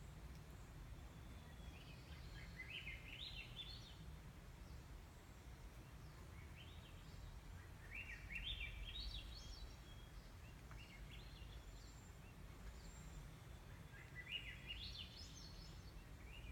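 A bird singing three short phrases several seconds apart, each a quick run of notes stepping up in pitch, with a few fainter notes between, over a low steady rumble.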